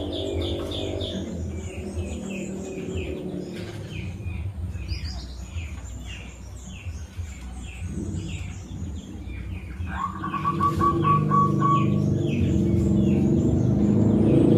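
Birds chirping repeatedly, with a short rapid trill of even notes about ten seconds in. Under them a low rumble grows louder near the end.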